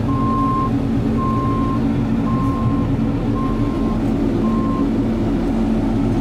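Diesel engine of a 2003 Sterling L7500 truck running steadily while its backup alarm beeps about once a second, a single steady tone each time: the truck is in reverse.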